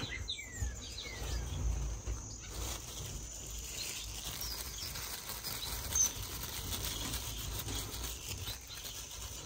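Caged finches in a bird room: a few faint chirps and the flutter and patter of small wings, over a low steady rumble and faint handling rustle.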